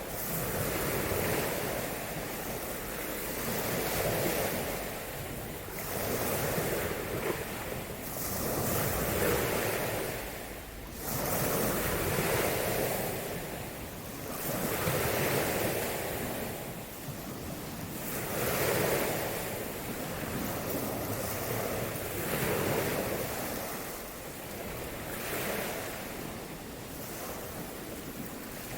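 Ocean waves breaking and washing in, swelling and fading about every three seconds, with wind buffeting the microphone.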